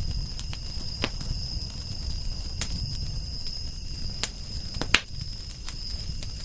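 Campfire crackling: scattered sharp pops and snaps over a low steady rumble, the loudest snap about five seconds in. A thin, steady high-pitched tone runs underneath.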